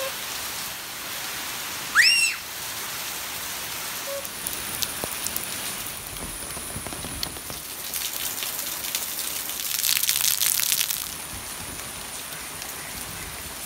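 Steady rain falling and pattering on surfaces. About two seconds in there is a single short, high chirp that rises and falls, and around ten seconds in a louder, closer spell of spattering.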